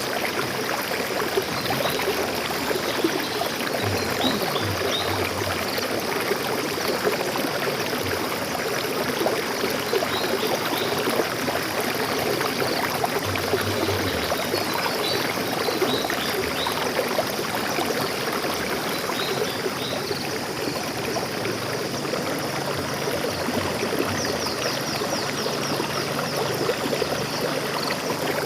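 A stream of water flowing and splashing steadily. Faint bird chirps sound now and then, with a quick trill a few seconds before the end.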